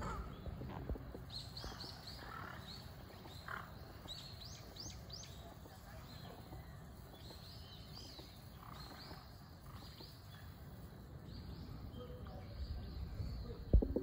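Small birds chirping: many short, high calls in quick runs, over a low background rumble. A sharp thump near the end is the loudest sound.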